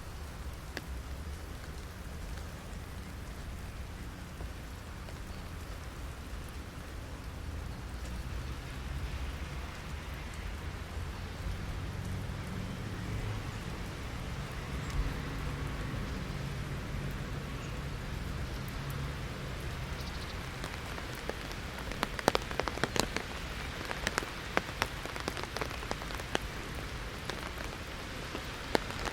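Heavy rain hitting an umbrella: a steady hiss of rain, with loud, sharp individual drop strikes growing frequent in the last third.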